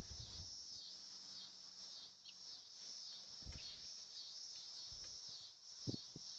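Insects trilling steadily outdoors, the chorus swelling about twice a second, with a couple of low thumps and one brief bird chirp.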